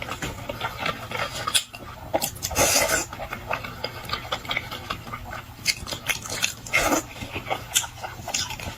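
Close-miked chewing and mouth sounds of a person eating salmon: many small clicks and smacks, with a longer, louder stretch of chewing about two and a half seconds in.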